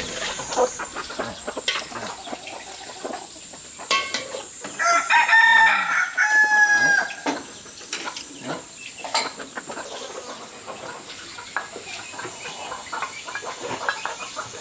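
A rooster crowing once, about five seconds in, for about two seconds, over a steady high-pitched drone and scattered small clicks.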